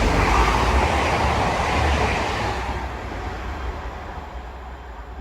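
Class 185 diesel multiple unit passing at speed, its rumble and rail noise loud at first and then fading away over the last couple of seconds as it recedes.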